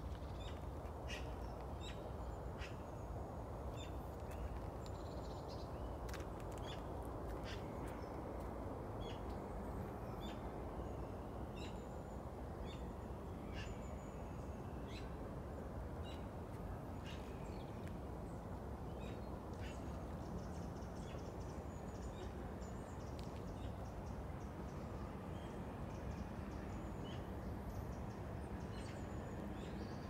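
Small birds chirping in frequent short, high calls over a faint steady low rush of outdoor background noise.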